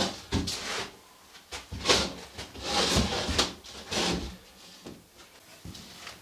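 Irregular knocks, clatters and scrapes of objects being handled by hand, several sharper knocks about two and three seconds in.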